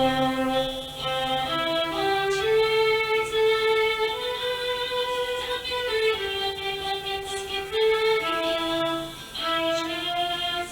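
Yamaha Electone electronic organ playing a melody in long held notes over a sustained bass line, in a bowed-string-like voice.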